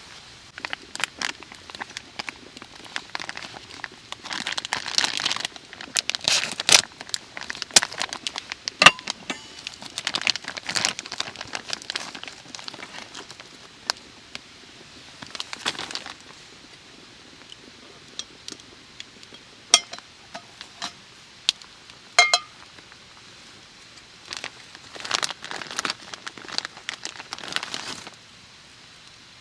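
Crinkly packaging being handled and crumpled in stretches, with a few sharp clicks and light clinks in between.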